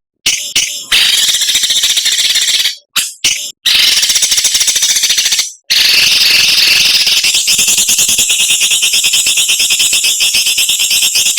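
Recorded songbird chatter: harsh, fast buzzing trills in rapid runs of notes (the sharp 'besetan' used to tutor caged birds). The phrases break off briefly several times in the first half, then one long run fills the rest.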